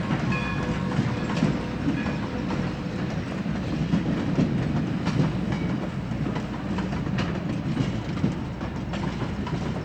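New Hope Railroad No. 40's steam train rolling past, a steady heavy rumble with scattered clicks from the wheels over the rail joints.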